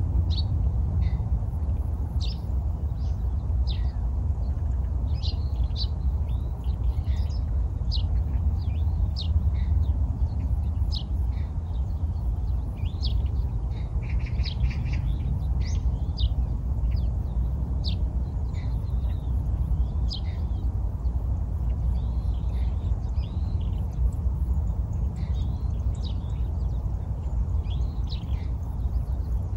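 Small birds chirping in many short, scattered calls throughout, over a steady low rumble.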